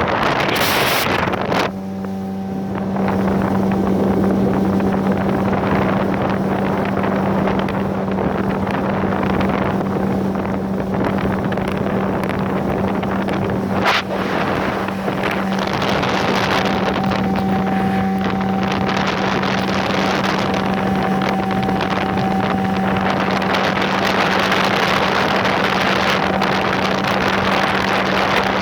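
Tohatsu 9.8 outboard motor running steadily under way, a constant engine hum with water and wind noise on the microphone. There is a sharp knock about fourteen seconds in.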